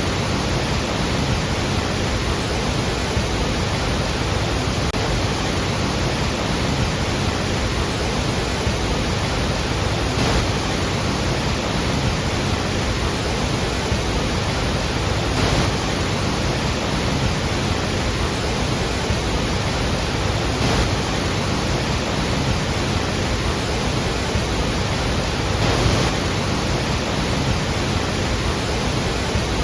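Iguazu Falls: heavy falling water making a steady, even rush with no breaks.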